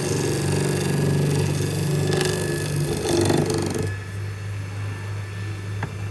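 A workshop machine running with a steady hum; about four seconds in the louder, fuller part of the sound cuts off, leaving a lower steady hum.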